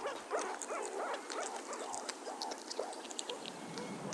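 Meerkat giving a quick run of short, arching chirp-like calls, about three a second, with light clicks mixed in.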